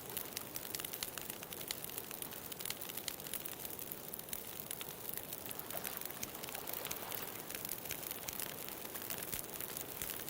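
Wood bonfire crackling, with a dense run of sharp pops and snaps, over a steady hiss of ocean surf.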